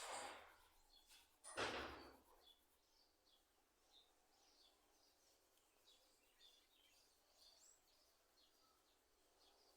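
Faint small birds chirping in short scattered calls over near silence, with a brief rustling scrape a little under two seconds in.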